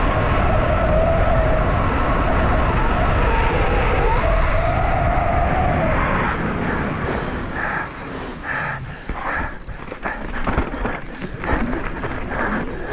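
Wind rushing over a moving camera's microphone, with a wavering whistle for the first half. Then come many short, irregular knocks and rattles, typical of a mountain bike running over rough ground.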